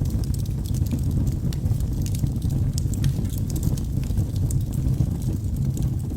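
Wood logs burning in a fireplace: a steady low rumble of the flames with frequent small, sharp crackles and pops at irregular moments.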